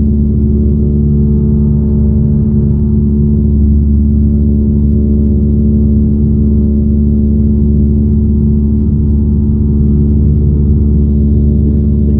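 Cessna 172's piston engine and propeller running steadily during a climb, an unbroken, evenly pitched drone inside the cabin.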